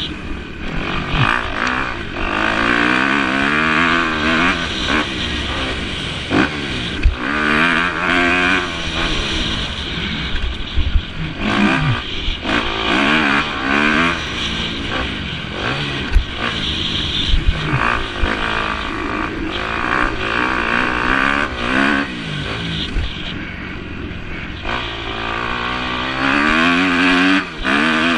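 Motocross bike engines racing, revving up and falling back over and over as riders work the throttle around the track, several bikes overlapping at times.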